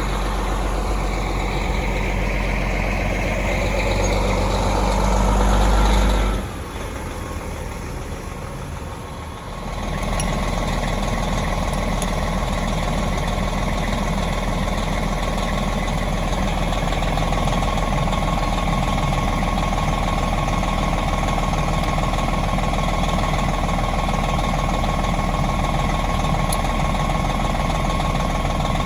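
Large vehicle engine running steadily, most likely the converted bus's. The sound drops away for about three seconds, about six seconds in, then steady running resumes.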